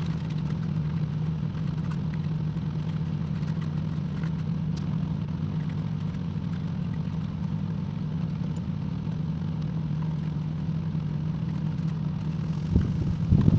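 Excavator engine running steadily, with a few faint clicks and two knocks near the end.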